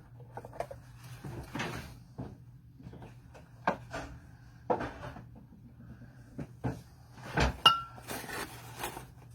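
Scattered household knocks and clatter of things being handled and moved, with the loudest bump and a short squeak near the end.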